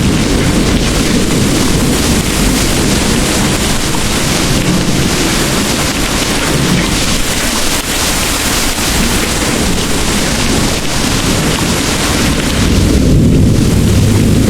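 Heavy rain pouring steadily, with a deep rumble of distant thunder underneath that swells near the end.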